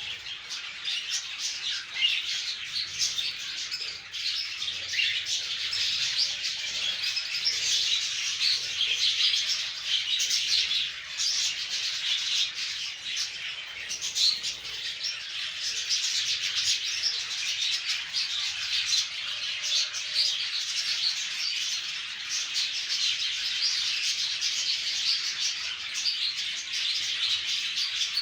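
Conure parrots chirping and calling without pause, many short calls overlapping into a dense chatter.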